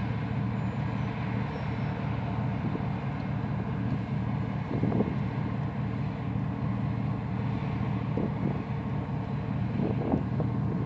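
A motor vehicle engine running steadily while driving along the road, with a few faint knocks.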